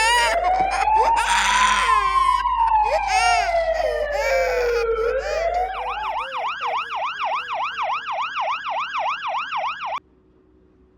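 Electronic toy siren: a slow wail that rises and falls over about five seconds, then switches to a fast yelp of about three cycles a second, cutting off suddenly near the end.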